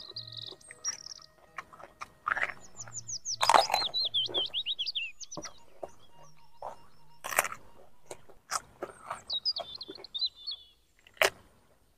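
Crunching and chewing of raw vegetables, with a few sharp loud crunches. Small birds chirp in quick runs of sweeping notes behind it.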